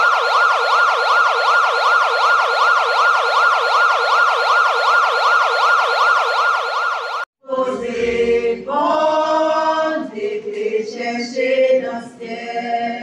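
A loud siren-like wail sweeping rapidly up and down cuts off abruptly about seven seconds in. A moment later a group of voices starts singing a gospel song.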